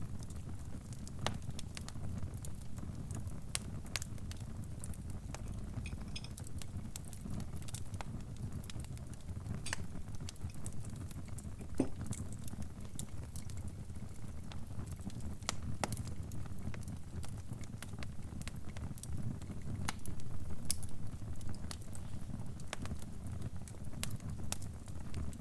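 Crackling fire: a steady low rumble of burning with scattered sharp pops and crackles.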